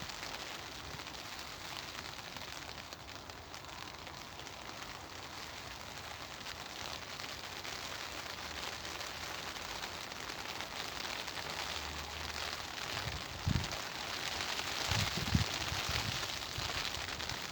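Steady rain falling and pattering on garden surfaces, a dense hiss of fine drop ticks that grows a little heavier in the second half. A couple of short low gusts of wind buffet the microphone near the end.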